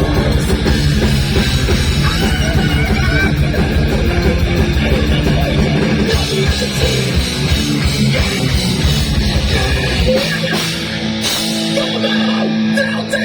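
Heavy metal band playing live: distorted electric guitars over fast, driving drums. About ten seconds in, the pounding low drums drop out, leaving held guitar chords ringing.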